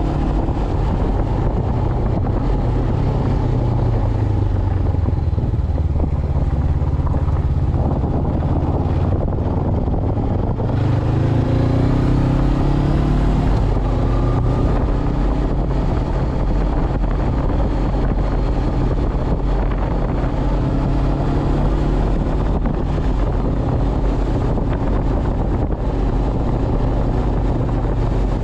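Honda CB500X's parallel-twin engine running under way, its revs rising and falling a few times, with wind rushing over the helmet-mounted microphone.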